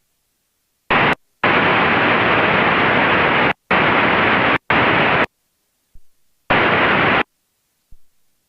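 Aircraft VHF radio hiss: five bursts of flat static that switch on and cut off sharply, with dead silence between them, as the squelch opens on transmissions carrying no voice. The longest burst lasts about two seconds.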